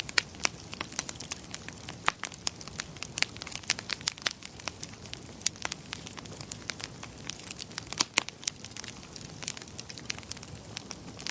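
Wood fire crackling: frequent irregular sharp pops and snaps over a steady low hiss.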